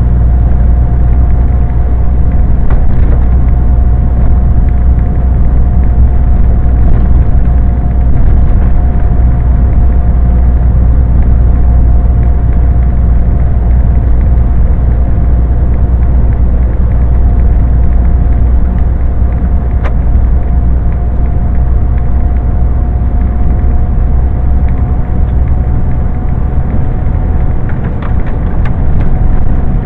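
Scania lorry's diesel engine and road noise while driving: a steady low drone with a thin, constant whine above it.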